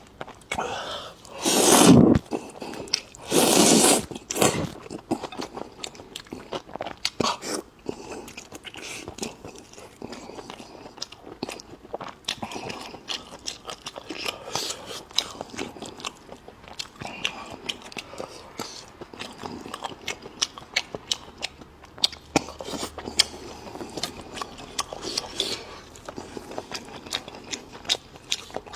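Close-miked eating sounds: a person biting and chewing with many quick wet clicks and smacks. Two loud rushing bursts come in the first few seconds.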